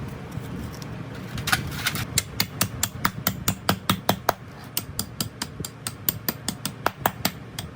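A rapid, even series of sharp light taps, about five a second, starting about one and a half seconds in, over a low steady background hum.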